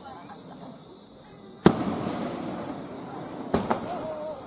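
Fireworks shells bursting: one sharp, loud bang about a second and a half in and a fainter one near the end. Under them insects chirr steadily and high-pitched.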